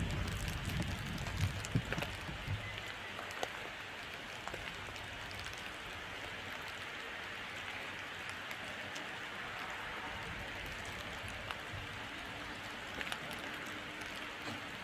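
Steady hiss of falling rain with scattered drip ticks; a low rumble underneath dies away about three and a half seconds in.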